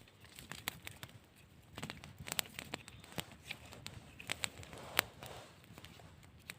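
Irregular crackling and clicking: sharp ticks and short crinkly clusters at uneven intervals, the loudest about five seconds in.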